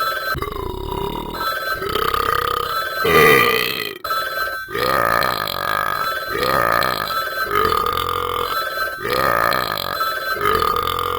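A dog howling at a phone in long drawn-out calls, one after another every second or two.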